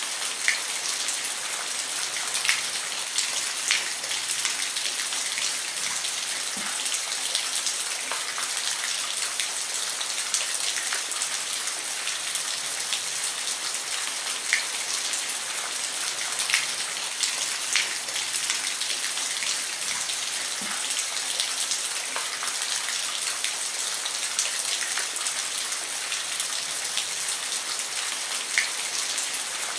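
Steady rain falling on a roof, an even hiss with scattered louder drops ticking.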